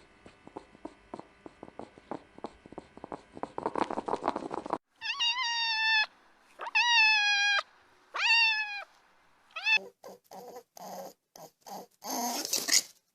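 A domestic cat meowing three times, each a long call that falls slightly in pitch. Before the meows come a few seconds of irregular crackly clicking, and a run of short choppy sounds follows near the end.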